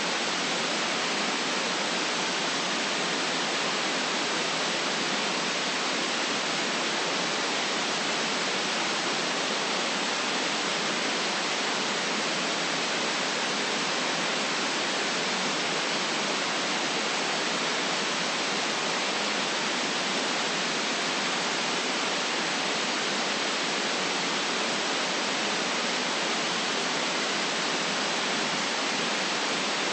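Steady white noise: an even, unchanging hiss with no deep rumble beneath it.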